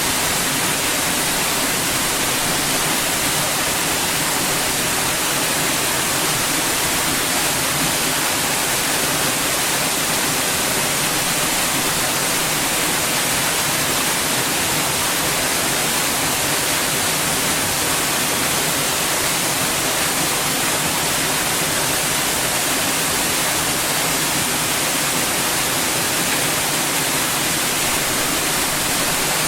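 Steady, unchanging white noise, a continuous hiss strongest in the high range.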